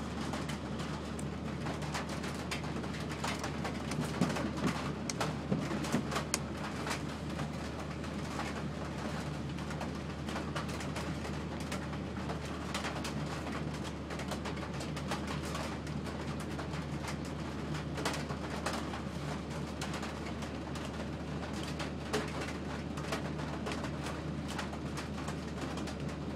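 Heavy rain hitting a vehicle's windshield and roof as dense, uneven spatters, a little heavier a few seconds in. A steady low engine hum runs underneath.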